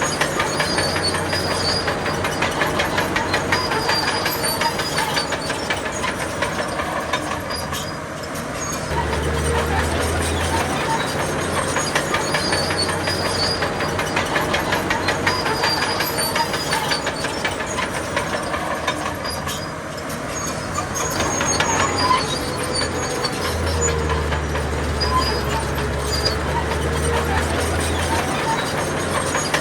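Crawler bulldozer working: a diesel engine running under load with the fast, continuous clatter of steel tracks. The engine eases off briefly twice and comes back up.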